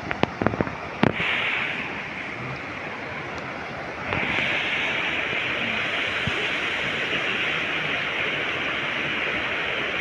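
Mountain stream rushing steadily over rocks, growing a little louder about four seconds in. A few sharp clicks sound in the first second.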